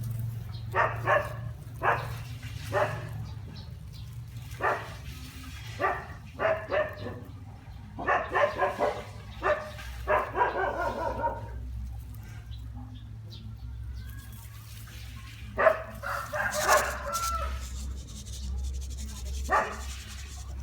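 A dog barking and yipping, a dozen or so short barks in irregular groups, over a low steady hum.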